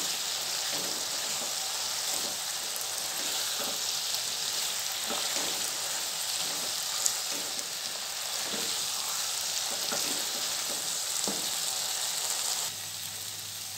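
Eggplant pieces in spiced oil sizzling steadily in a granite-coated nonstick pan as the water cooks off and the dish turns to a dry fry. A spatula stirs through them with soft scrapes. The sizzle drops away near the end.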